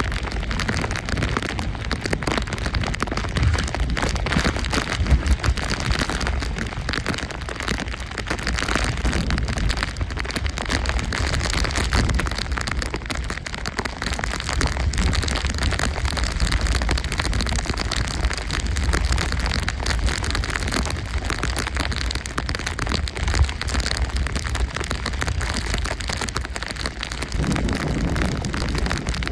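Storm wind buffeting the microphone in heavy, uneven gusts over a steady rush of rain.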